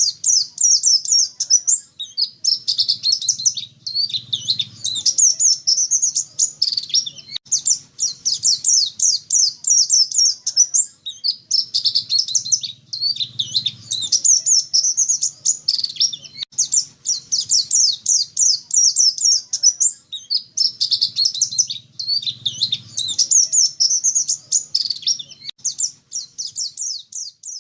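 Pleci dakun, a white-eye, singing a fast, twittering song in repeated phrases of two to three seconds, each broken by a brief pause.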